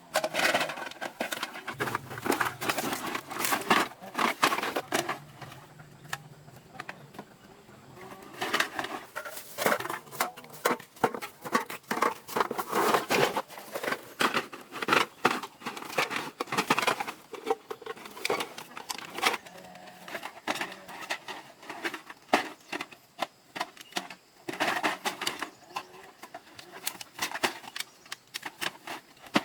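Irregular clicking and knocking of small hard objects being handled, mixed with stretches of rustling and scraping.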